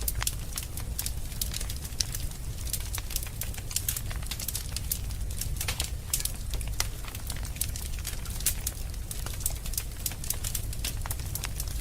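Fire crackling in a fireplace: frequent irregular sharp pops and snaps over a steady low rumble.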